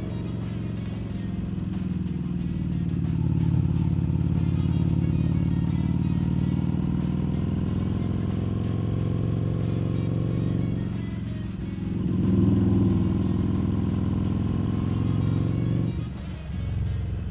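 Harley-Davidson Street Rod 750's V-twin engine running under way on the road, pulling steadily. Its note dips off about eleven seconds in, picks back up, then eases off again near the end.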